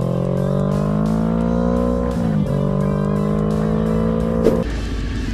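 Motorcycle engine accelerating, its pitch rising steadily for about two seconds, dipping briefly at a gear change, then holding steady, with background music. A sharp click comes just before the engine sound cuts off abruptly near the end.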